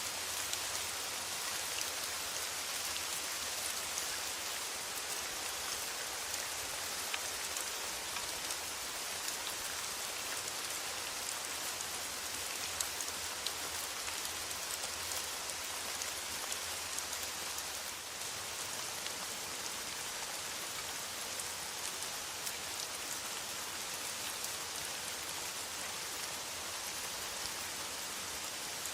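Steady rain falling on a metal roof: a dense, even hiss with many small drop taps, no let-up.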